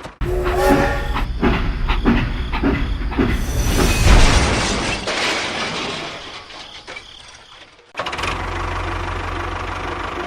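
Small motorised model construction machines running with a rattling mechanical clatter. The sound cuts off abruptly about eight seconds in, and a steadier low hum takes over.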